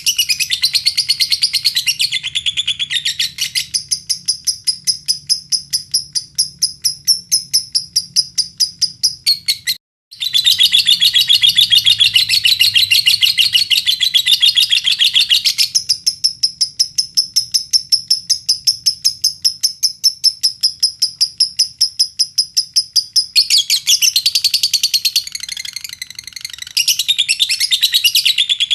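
Lovebird singing a long, fast chattering song of rapidly repeated high chirps, several a second. It breaks off for an instant about ten seconds in, then carries straight on.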